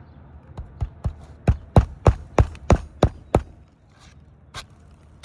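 Roughly ten hand-hammer strikes driving roofing nails into asphalt shingles, about three a second, growing louder and then stopping, with one more strike near the end. These nails are resecuring brittle old shingles that crease as they are fastened.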